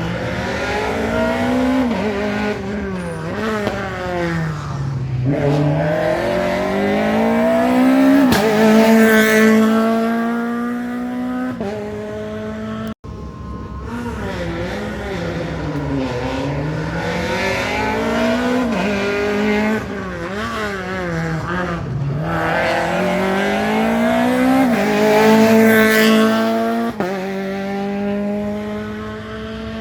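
Rally car engines at full attack on a special stage, revving hard, falling and climbing as the cars shift gears and brake, with stretches held at high revs. A sudden break about halfway through starts a second, similar car pass.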